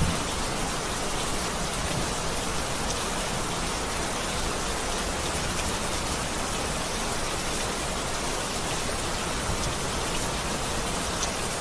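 Steady rain falling and pattering on a surface, with an occasional distinct drop tick.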